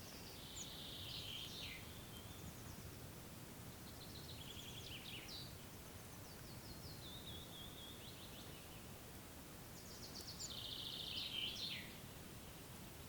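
A songbird singing short phrases of rapid high notes, each ending in a quick downward sweep, repeated about every four to five seconds, the loudest near the end. Faint steady background noise of the open air runs underneath.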